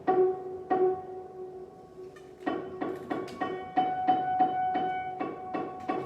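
Improvised instrumental music: sharply struck or plucked notes ringing around one repeated pitch. After a sparse opening, a quick steady run of notes starts about two and a half seconds in.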